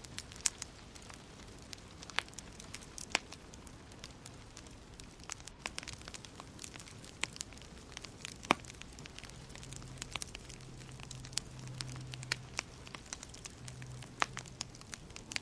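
Wood fire in a fireplace crackling, with irregular sharp pops and snaps over a soft steady hiss of burning; one louder pop a little past halfway. A faint low hum comes in about ten seconds in.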